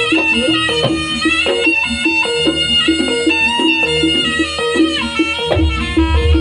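Live Javanese traditional dance music: a reedy wind instrument holds a long melody over quick repeated struck notes and drum beats, with heavier low drum hits near the end.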